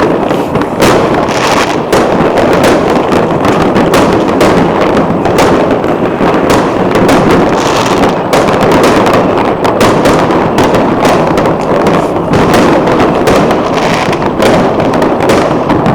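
Fireworks going off in a dense, continuous barrage: many overlapping bangs and crackles, loud and with no pause.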